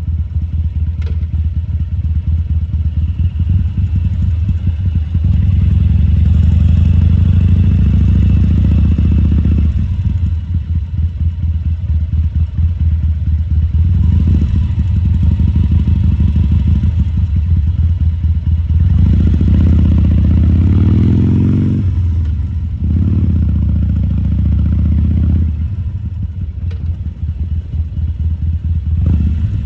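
2014 Harley-Davidson Sportster 1200 Custom's air-cooled V-twin running at low speed. The throttle is opened and eased off about four times, with one swell near the middle climbing in pitch.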